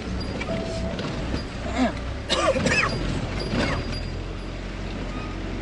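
Cargo truck body and suspension creaking and squealing as the truck lurches over a rough off-road track. A few rising-and-falling squeals come in the middle, over the low, steady running of the engine.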